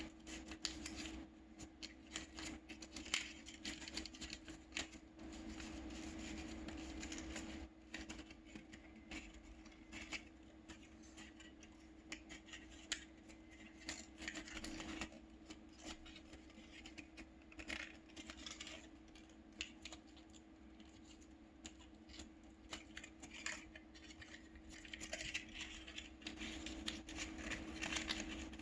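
Paper being folded and creased by hand: irregular crinkles, rustles and light taps, over a steady low hum.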